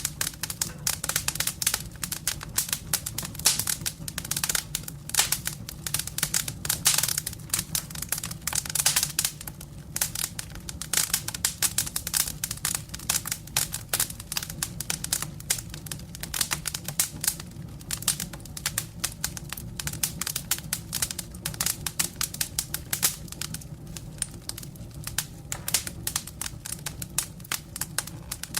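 Wood fire burning in a fireplace: dense, irregular crackling with many sharp snaps over a steady low rumble.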